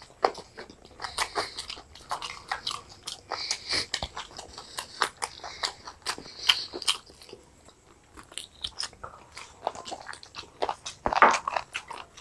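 Close-up eating sounds of people biting into and chewing fried chicken lollipops: irregular crunches, wet chewing and mouth smacks, with a louder burst about eleven seconds in.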